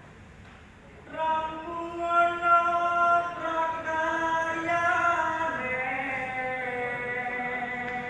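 Solo male voice singing macapat, Javanese sung poetry, unaccompanied. One long, slowly ornamented sung line begins about a second in; its pitch steps down partway through and the line is still being held at the end.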